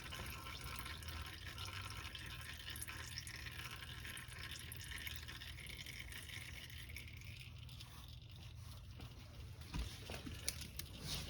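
Faint trickle of old engine oil draining into a drain pan, with a few light clicks near the end.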